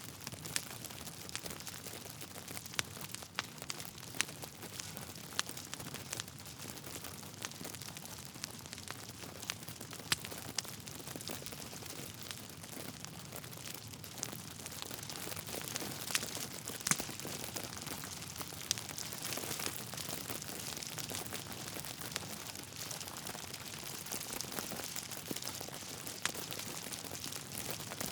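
Wood fire burning in a fireplace: a steady hiss with many small irregular crackles and occasional louder pops from the burning logs.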